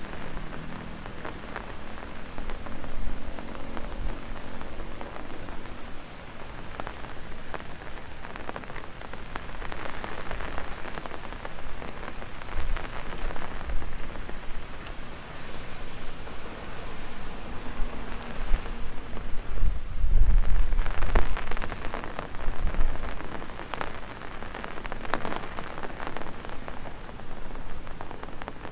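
Heavy rain pattering on an umbrella, a steady hiss dotted with sharp ticks of individual drops. A louder low rumble comes about twenty seconds in.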